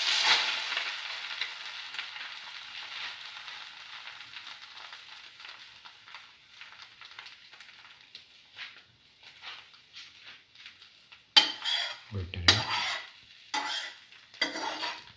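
Egg-soaked bread slice sizzling in a hot frying pan as French toast, the sizzle loudest as it goes in and fading steadily. Near the end come several sharp knocks and scrapes against the pan.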